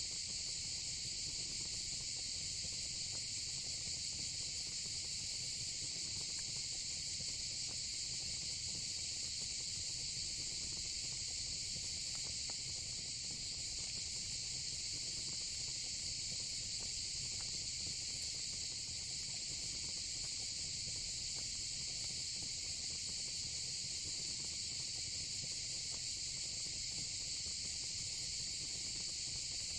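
A steady, high-pitched chorus of crickets and cicadas that never lets up, with a few faint crackles from the fire pit now and then.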